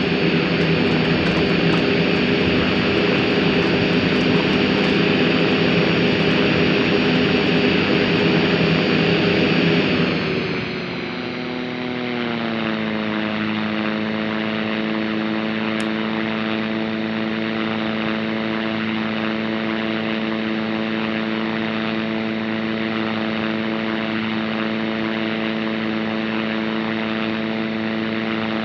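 Cessna Caravan's single Pratt & Whitney PT6A turboprop and propeller running steadily at high power. About ten seconds in the power comes back: the pitch slides down over a second or two and then settles into a steady, lower drone.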